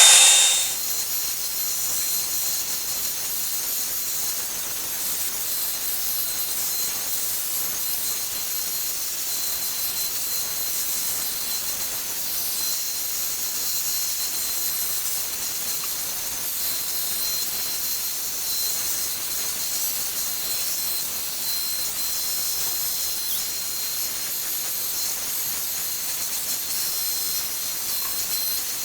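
Revlon One-Step hair dryer brush running steadily: a rush of air with a thin, steady high whine from its motor. It is loudest in the first second, then settles.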